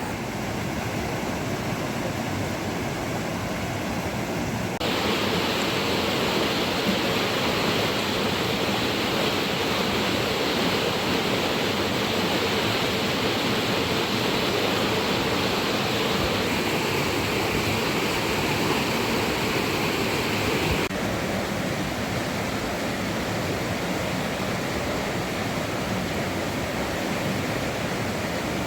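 Steady rushing water noise, heavy and even. It gets louder and brighter about five seconds in, then drops back about twenty-one seconds in.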